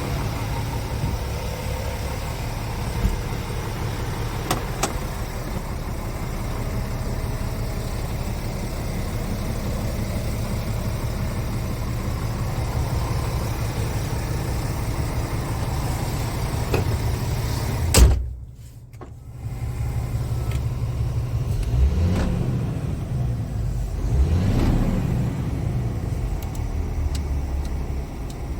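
Scania G410 tractor unit's 13-litre inline-six diesel running steadily. About two-thirds of the way through a sharp click is followed by a brief drop in sound, then a couple of short swells in engine sound.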